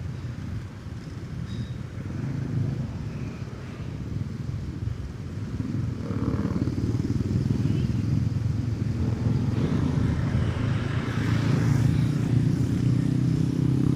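Motorcycle engine running under way, picked up from on the bike with wind rushing past; the engine grows louder about halfway through and holds there.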